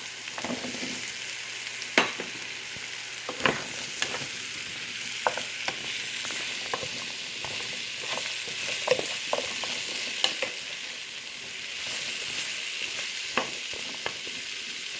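Pumpkin and beans sizzling steadily in a pan while a utensil stirs them, knocking sharply against the pan every second or two.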